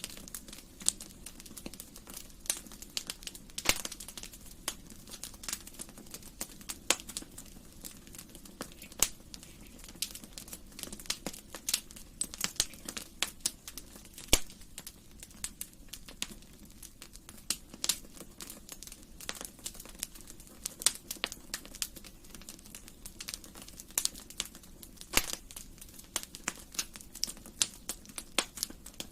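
Wood fire in a fireplace crackling, with irregular sharp pops and snaps of varying loudness over a low steady hiss.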